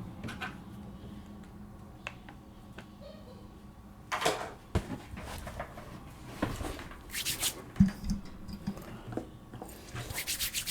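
Close-up handling of takeout food and its packaging: paper and plastic crinkling with light clicks and knocks as items are moved and set down, the sharpest knock a little after the middle.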